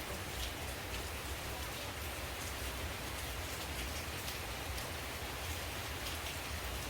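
Steady rain falling on leaves, a continuous hiss with scattered sharper drop ticks.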